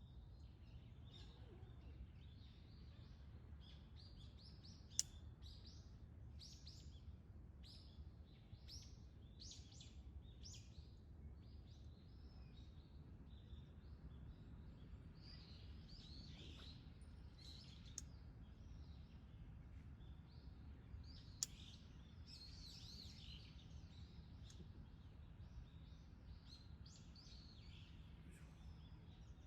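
Faint, repeated short chirps and calls of small birds at dawn over a steady low rumble, with a few sharp clicks.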